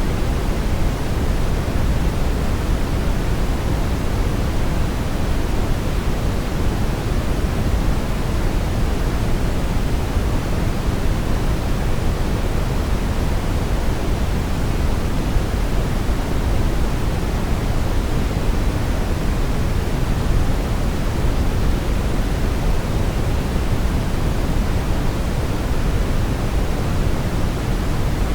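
Brown noise: a steady, even, deep rushing hiss, strongest in the bass and dull at the top, with no change in level.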